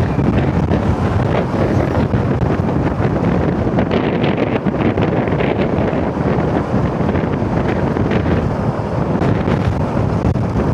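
Steady wind rushing and buffeting over the microphone of a rider on a moving motor scooter, with road and vehicle noise underneath.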